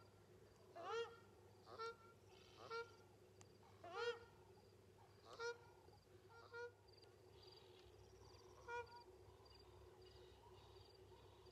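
A bird honking repeatedly, short calls about once a second, some rising in pitch, growing sparser in the second half, with faint high-pitched chirps in between.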